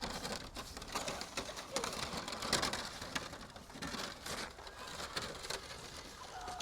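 Birds calling, among a scatter of short, irregular sharp sounds.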